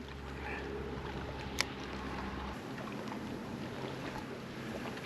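Steady outdoor hiss with a low hum that cuts off about two and a half seconds in, and one sharp click about a second and a half in.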